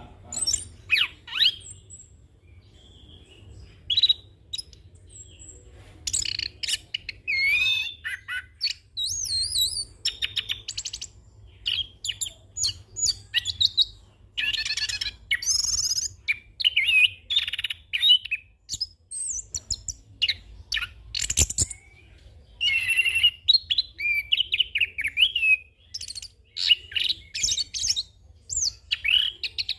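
Chestnut-capped thrush (anis kembang) singing a long, varied rolling song: quick trills, whistled glides and chirps mixed with phrases mimicked from other birds, in short bursts with brief pauses. A faint steady low hum lies underneath.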